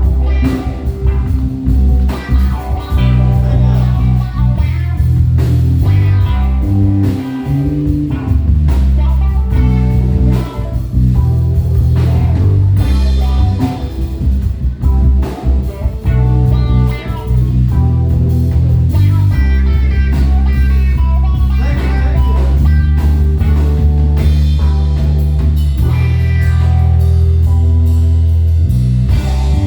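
Live band playing an instrumental passage in a bluesy rock groove: guitar over a prominent bass line and drum kit.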